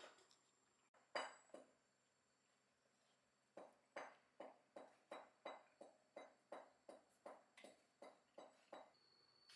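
One sharp knock about a second in, then a steady run of about fourteen light ringing metallic taps, roughly three a second, ending near the end.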